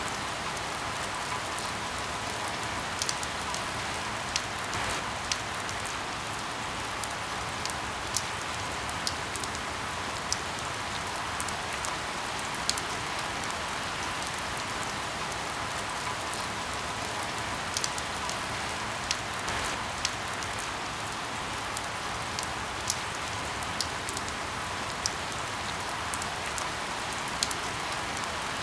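Steady rain hiss, with irregular sharp pops from crackling firewood scattered through it.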